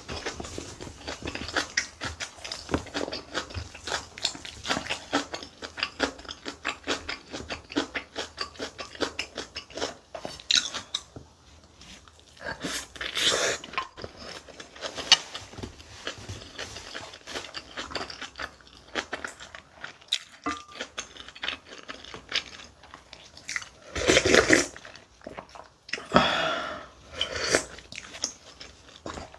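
Close-miked chewing of a mouthful of kimchi bibimbap (mixed rice with kimchi and tuna): rapid wet smacking and chewing clicks, thinning out about halfway. It is broken by a few louder, second-long noisy rustles near the middle and toward the end.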